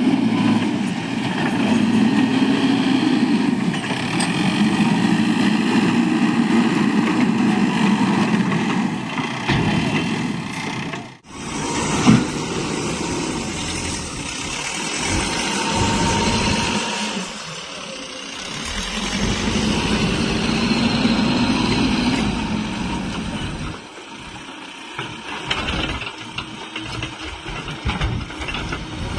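Backhoe loader's diesel engine running under working load, swelling and easing every few seconds as the machine digs and loads sand. The sound breaks off sharply about eleven seconds in, and short knocks come near the end.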